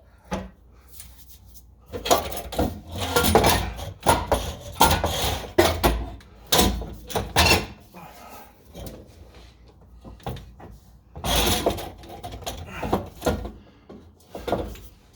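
Irregular metal clanking, knocking and scraping as a section of catback exhaust piping is wrestled loose under a car, in two busy spells with quieter gaps between.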